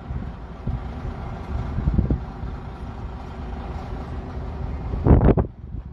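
Low, steady rumble of heavy equipment diesel engines running at a rail work site, with a short, loud burst of noise about five seconds in.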